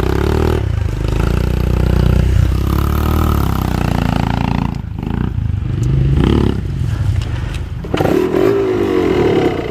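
Trail motorcycle engine running and revving up and down as the bike is ridden off-road, easing off briefly twice, with a few knocks.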